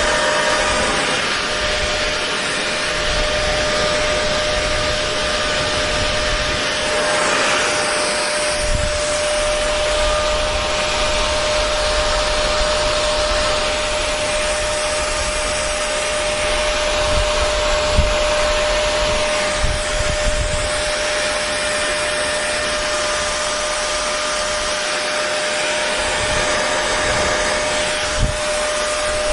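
Hair dryer running continuously: a steady rush of blown air with a constant motor hum underneath.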